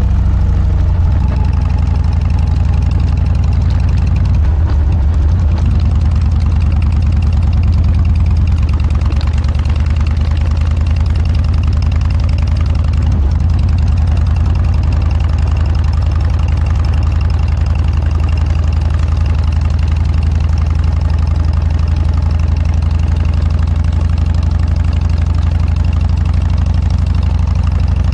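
Harley-Davidson Dyna's V-twin running steadily through a Motorstage aftermarket muffler: a deep, even exhaust note with no revving.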